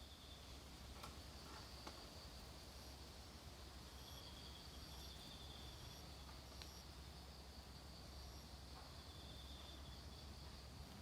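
Near silence with faint insects chirping in high steady trills, some starting and stopping, over a low hum.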